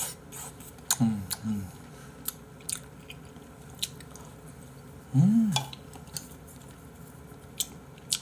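A man chewing a soft piece of braised radish, with many wet mouth clicks and smacks. He gives two short hums about a second in and a louder hum, rising then falling, a little past the middle.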